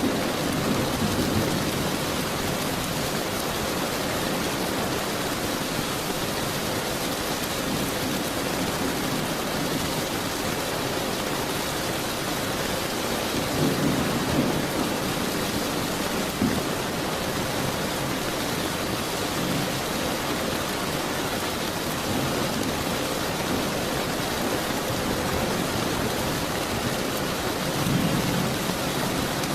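Steady heavy rain with low rolls of thunder swelling up three times: near the start, about halfway through, and near the end.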